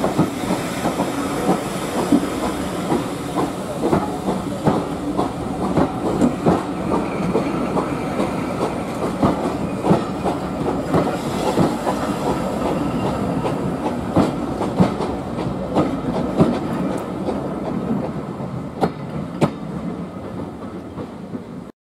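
Train running along the track: a steady rumble with rapid, irregular clicks and clatter from the wheels on the rails, easing off a little near the end.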